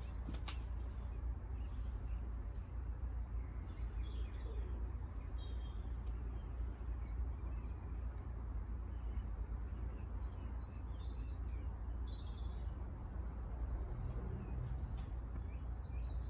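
Small wild birds chirping and calling now and then over a steady low background rumble.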